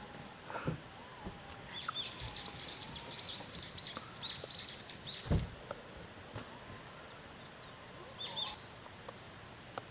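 A songbird singing a fast run of short, high chirps from about two seconds in until about five, with another short phrase near the end. A single thump sounds about five seconds in, and a few light knocks come early.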